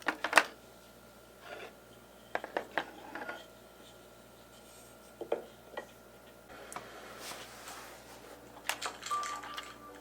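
Scattered light clicks and clinks of small hard objects being handled and set down, in small groups with quiet between them, and a soft rustle near the end.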